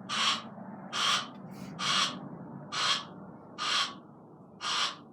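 Barn owl hissing in short breathy bursts, about one a second, six times, over a low steady hum.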